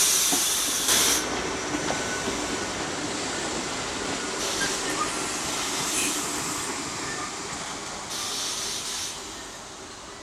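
Train running past with a steady rumble of wheels on the rails that fades away toward the end. Short bursts of air hiss come three times: at the start, in the middle and near the end.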